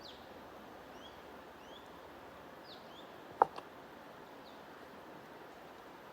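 Scattered short, high bird chirps, some rising and some falling, over a steady rushing hiss. About three and a half seconds in there is a sharp click, the loudest sound, followed at once by a fainter one.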